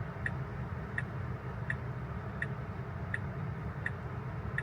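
Tesla's turn-signal indicator ticking steadily inside the cabin, about seven even ticks, one every 0.7 seconds or so, over a low steady cabin rumble.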